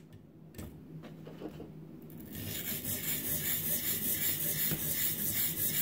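Coarse sharpening stone of a ViperSharp guided sharpener stroking rapidly back and forth along a knife's steel edge, a rhythmic rasping that starts about two seconds in: the stone taking away metal to bring the edge down to its apex.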